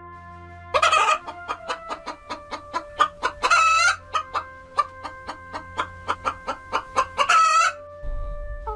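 Chickens clucking in quick short notes, about three a second, broken three times by louder, longer squawks.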